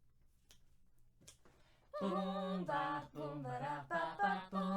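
Near silence for about two seconds, then an unaccompanied voice starts singing.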